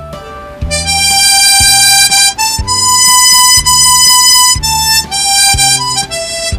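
Harmonica playing a melody over a backing track with a steady beat. After a short run of notes, one note is held for about two seconds, then the tune moves on in shorter notes.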